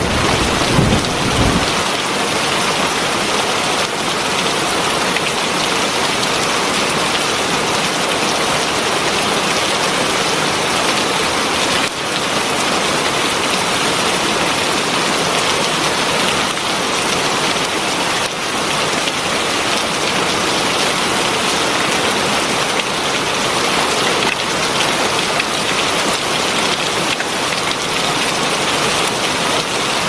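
Heavy rain falling steadily, a dense even hiss. Near the start, the tail of a low thunder rumble dies away.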